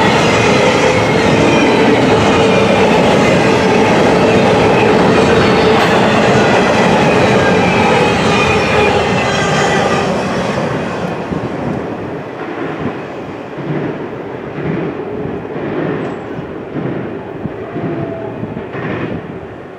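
Double-stack intermodal container well cars rolling past on steel wheels, rumbling and clacking over the rail joints with a steady high ringing from the wheels. About ten seconds in, the last car goes by and the sound drops to a fading clatter of wheels over joints as the train moves away.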